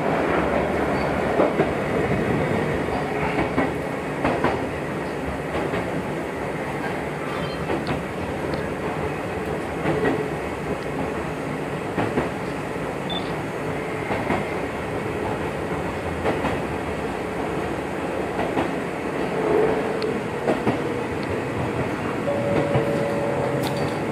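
Small electric commuter train of the Gakunan Railway running along the line, heard from inside the car: a steady rumble of wheels and motors with scattered clicks from the rail joints, and a short steady whine near the end.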